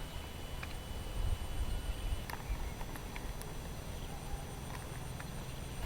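Light wind rumbling on the microphone, with scattered small clicks and a faint steady high pulsing tone.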